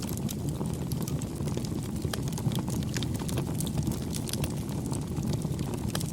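Campfire burning: a steady low rumble of flames with frequent small, irregular crackles and pops of the wood.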